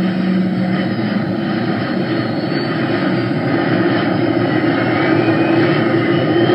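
Aircraft engines running steadily while taxiing, with a faint whine rising slowly over the last couple of seconds.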